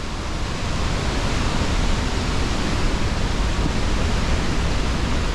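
Steady, loud rush of falling water from a large waterfall, an even noise with no pauses or changes.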